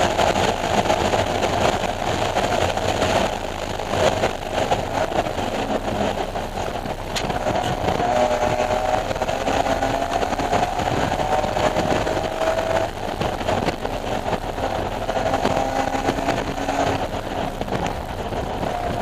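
BMW E46 M3's S54 straight-six engine pulling hard on track, its pitch climbing slowly through the revs and falling back at each gear change.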